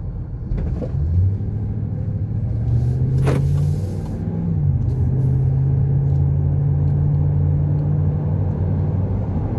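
Pickup truck's V8 engine accelerating under load, its pitch climbing. About four and a half seconds in the pitch drops, as at an upshift, and the engine then pulls steadily. A brief hiss is heard about three seconds in.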